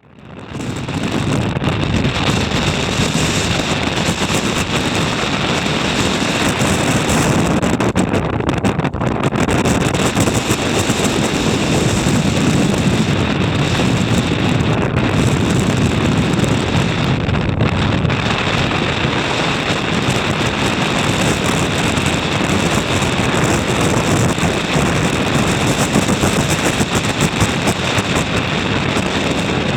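Strong, gusty mountain wind blasting across the microphone: a loud, continuous rush and buffeting that swells and eases.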